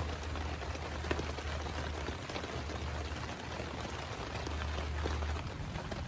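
Heavy rain falling steadily, with individual drops striking close by, over a low rumble that fades about five seconds in.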